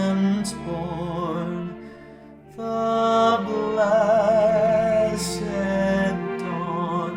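Voices singing a slow, sustained carol, the notes held with vibrato. The sound dips briefly about two seconds in before the next phrase enters.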